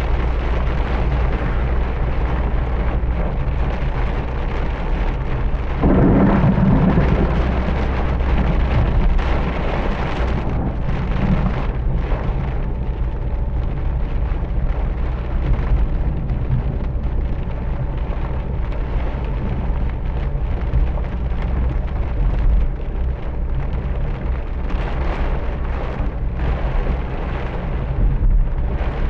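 Heavy rain falling in a thunderstorm, a steady dense hiss over a deep continuous rumble, with a louder swell about six seconds in.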